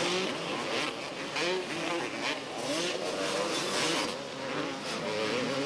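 Several 250cc two-stroke motocross bikes racing, their engines revving up and falling off again and again.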